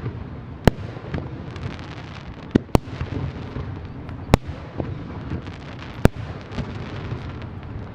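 Aerial fireworks shells bursting: about five sharp bangs, two of them in quick succession just before the middle, over a continuous crackling and low rumbling from the display.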